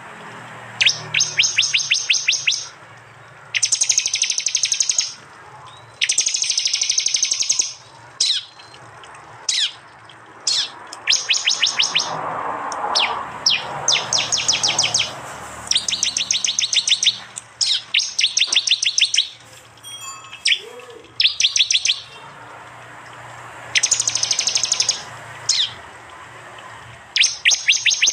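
Prenjak (prinia) birds giving their loud 'tembakan' calls: bursts of fast, sharp, high-pitched chattering notes about one to two seconds long, repeated again and again with short pauses and scattered single chirps between.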